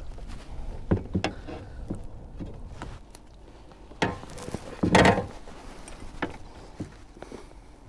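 Irregular knocks, thumps and rustles on a kayak as a freshly landed fish and tackle are handled, with a louder clatter about five seconds in.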